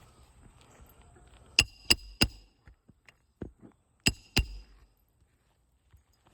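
Hammer driving nails into a replacement three-tab asphalt shingle: three quick strikes with a short metallic ring about a second and a half in, a couple of lighter knocks, then two more ringing strikes about four seconds in.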